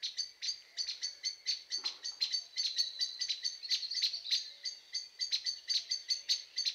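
Birds chirping: a dense run of short, high calls, about four a second, with no pause.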